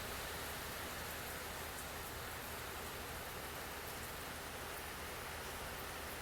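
Heavy hurricane rain falling as a steady hiss, with faint scattered drop hits.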